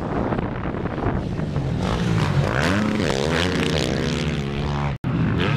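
Dirt bike engine revving hard, its pitch climbing and falling with throttle and gear changes. The sound cuts out for an instant about five seconds in.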